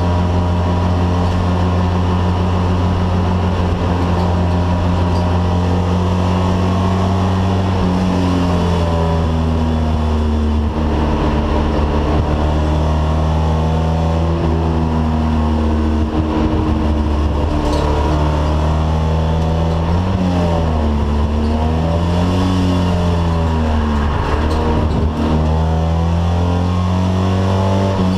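Alfa Romeo car engine under way, running at a steady pitch for the first several seconds, then rising and falling in pitch several times as the car accelerates and eases off.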